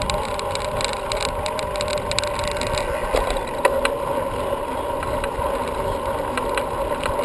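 Steady riding noise of a bicycle on the move, heard from on the bike: rumble of tyres and wind, with a couple of short clicks a little after three seconds in.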